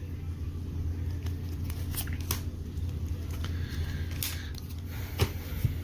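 A few sharp, soft clicks and light rustles of Pokémon trading cards being handled, over a steady low hum.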